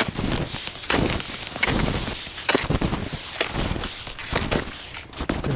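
Touring skis crunching and shuffling through snow in a steady stride, a little more than one step a second.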